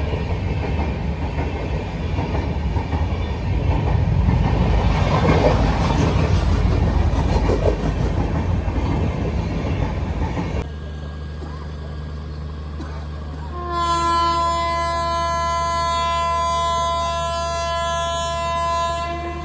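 A train rumbling and clattering past for about ten seconds, then a steady low hum. A long locomotive horn blast follows, held for about five seconds near the end.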